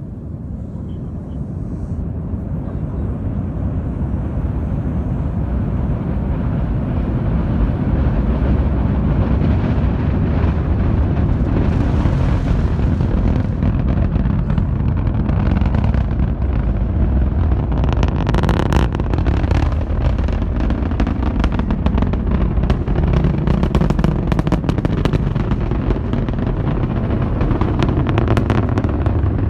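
SpaceX Falcon 9 rocket launch heard from about three miles away: a very low rumble that builds over the first several seconds, then holds loud and steady, with crackling from about twelve seconds in. Not ear-piercing; the kind of rumble that shakes the body and the ground.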